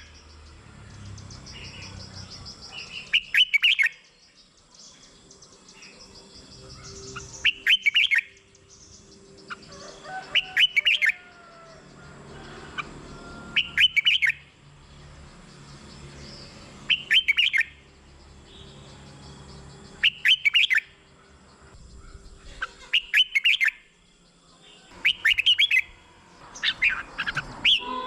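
Red-whiskered bulbul singing short, loud, warbling phrases about every three seconds, with a faint steady hum between them.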